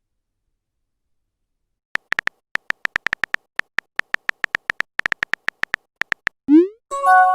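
Phone-keyboard typing sound effect: an irregular run of short, high, beep-like clicks starting about two seconds in, then near the end a quick rising bloop and a short chime, a message-sent notification.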